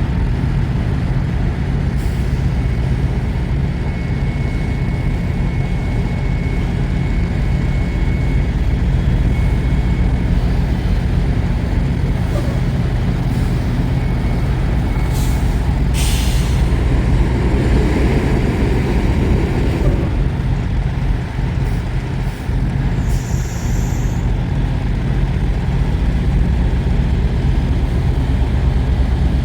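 Semi-truck diesel engine running steadily, with a short hiss about halfway through.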